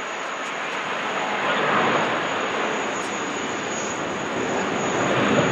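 Jet airliner engines running, a dense rushing noise that swells about two seconds in and grows louder again near the end.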